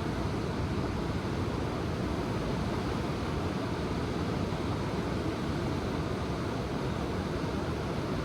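Ocean surf: a steady, low wash of waves, with no single break standing out.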